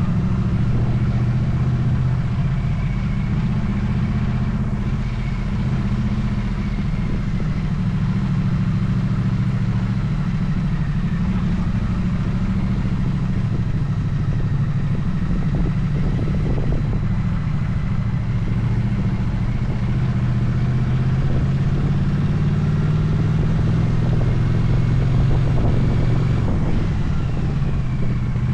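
Motorcycle engine running steadily while riding along, its note drifting gently up and down with small changes in throttle.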